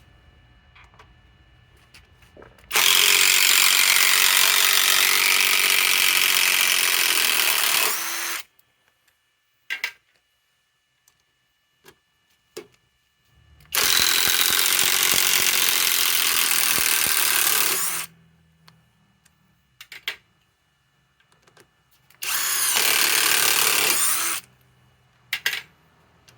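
SKIL PowerCore 20 cordless impact driver running in three long bursts as it backs out fasteners: about five seconds, then four, then two. Short clicks and knocks sound between the runs.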